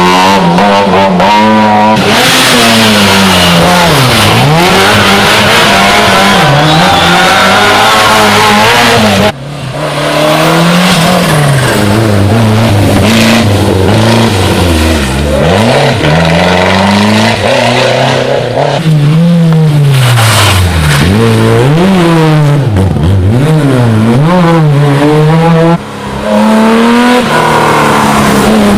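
Historic rally cars driven hard, engines revving up and falling back again and again as they change gear and brake for corners. The sound breaks off abruptly twice, switching from one car to the next.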